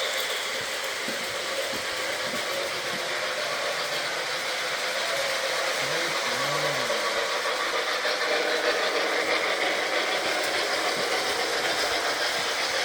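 Model train running on its track: a steady whirring rattle.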